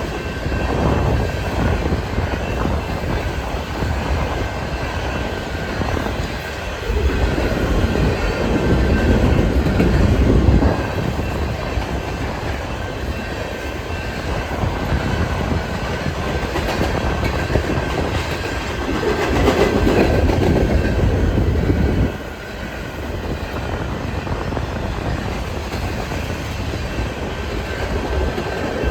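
Empty grain hopper cars of a freight train rolling past, wheels clattering steadily over the rail, growing louder and softening as the cars go by, with a faint thin steady high tone throughout.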